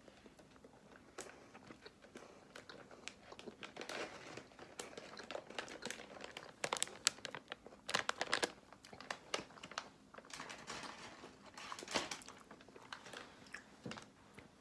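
Plastic snack packaging crinkling as it is handled, in irregular crackles that are loudest around the middle and again near the end.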